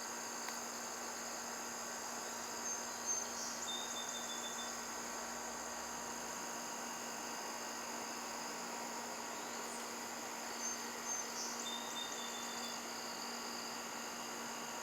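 Summer insect chorus of crickets, a steady high-pitched trilling, over a steady low hum. Faint short chirps come twice, about eight seconds apart.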